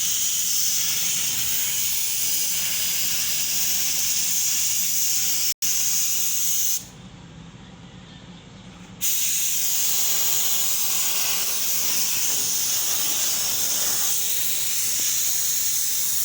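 Paint spraying: a steady high hiss that stops for about two seconds partway through, then starts again.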